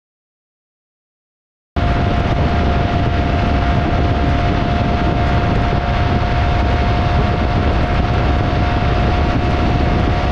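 Silence for the first two seconds or so, then the Keeway K300R's 300 cc single-cylinder engine running at a steady speed under a loud rush of riding wind, with one steady whine that does not rise or fall.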